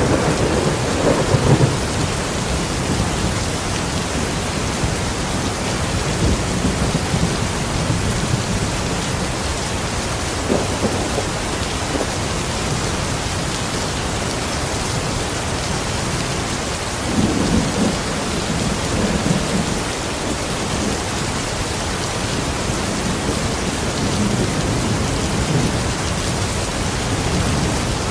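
Steady heavy rain hissing, with low rumbles of thunder rolling in a few times, the strongest near the start and about two-thirds of the way through.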